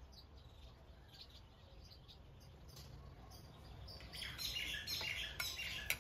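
Faint birds chirping, busier in the second half, over a low steady background hum, with a couple of light sharp clicks near the end.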